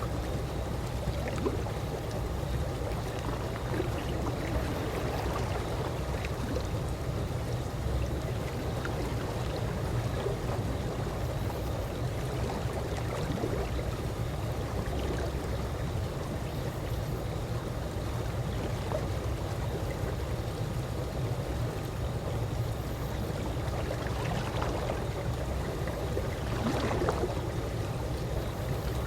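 Calm pool water lapping with small trickles and gurgles over a steady low wash, a little livelier near the end.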